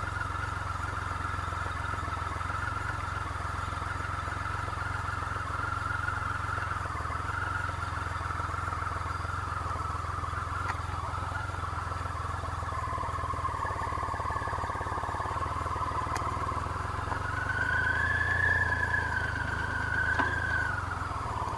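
Triumph Rocket III motorcycle's three-cylinder engine running steadily while riding. The engine note rises and swells briefly near the end.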